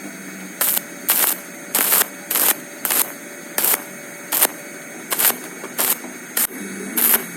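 Welding arc struck in short repeated bursts, about one every half second or so, each a brief crackling hiss: stitch welding done pulse by pulse.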